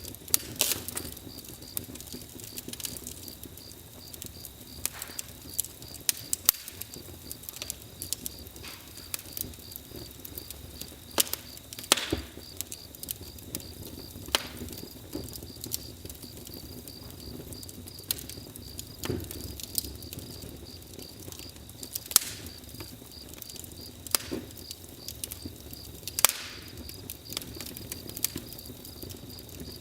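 Campfire crackling, with irregular sharp pops every second or two, over a steady high chirring of crickets.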